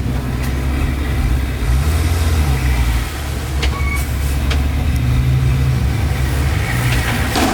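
Heavy diesel engine of earthmoving machinery running under load, its low hum rising and falling in pitch as it is worked. A few short, sharp knocks come in the middle and again near the end.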